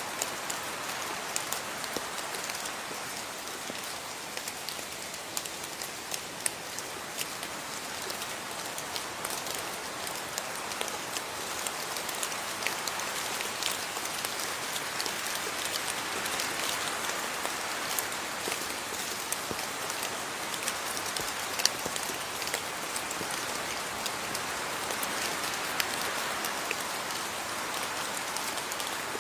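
Steady rain with the close, irregular ticks of individual drops striking a surface.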